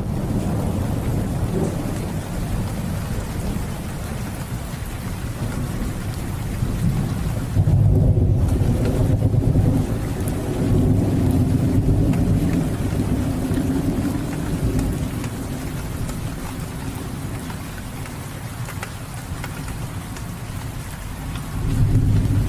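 Steady rain falling, with low rolling thunder that swells about eight seconds in, eases off, and builds again near the end.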